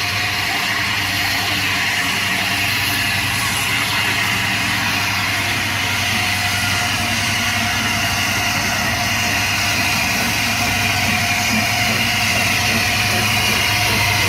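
Heavy railway locomotives running with a steady low drone and hiss, growing slightly louder near the end.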